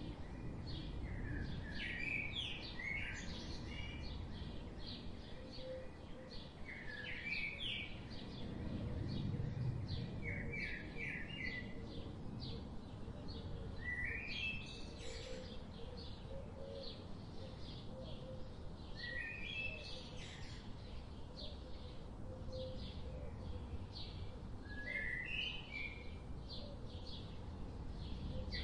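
Birds chirping: a short rising run of chirps that comes back every few seconds, with fainter quick calls between, over a steady low background noise.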